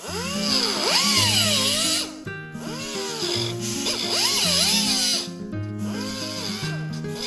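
A power tool cutting the truck's sheet metal in three runs, its whine sagging and rising in pitch as it loads up, with short breaks about two seconds and five seconds in. Background guitar music with a steady bass line plays under it.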